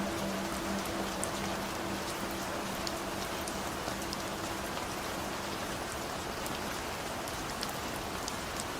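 Steady rain falling, an even hiss with scattered sharp drop ticks. A few faint held musical tones fade out during the first few seconds.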